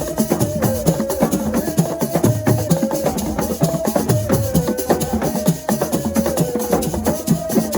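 Assiko music: fast, dense percussion with sharp wooden strokes and shaken rattles, over a held melodic line that steps between two pitches.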